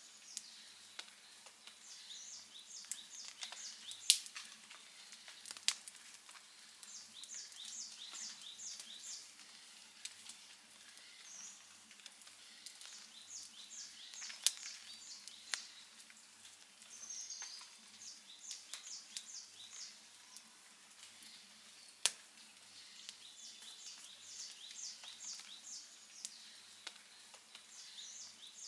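Outdoor wood fire crackling, with a soft hiss and scattered sharp pops, a few of them much louder than the rest. A high chirping in short trains of several quick pulses repeats every second or two.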